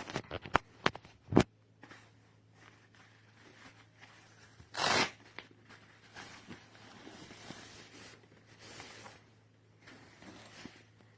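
A nylon travel backpack being handled: several sharp clicks in the first second and a half, a short loud rasp about five seconds in, and faint rustling of the bag's fabric.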